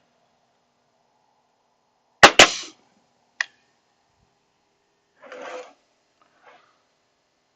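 Nail gun firing twice in quick succession, two sharp loud shots, followed about a second later by a single lighter click. A brief scraping sound follows a couple of seconds after.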